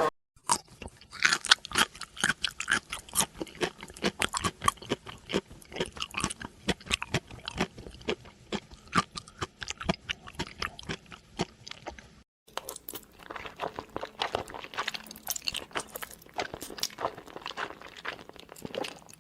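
An animal chewing crunchy food, with rapid, irregular crunches several times a second. The sound breaks off about twelve seconds in, and similar crunchy chewing follows from a different recording.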